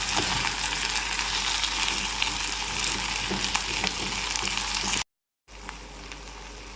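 Sliced lotus root and long beans sizzling in hot oil in a clay pot while being stirred, with small scrapes and knocks of the stirring spoon. About five seconds in the sound cuts out for a moment and comes back much quieter.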